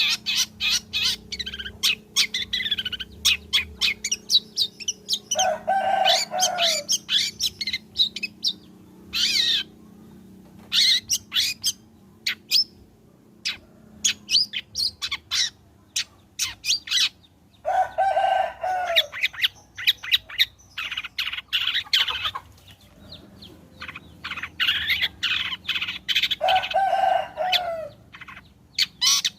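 Long-tailed shrike singing continuously: rapid, harsh chattering and sharp clicking notes. A lower, falling call comes three times, about six, eighteen and twenty-seven seconds in.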